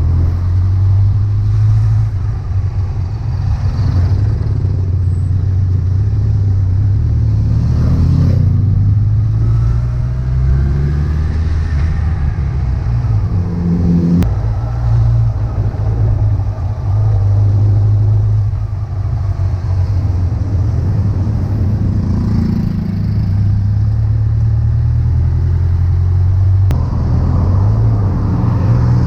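Honda CB1100EX's air-cooled inline-four engine running on the move, its pitch rising and falling with the throttle.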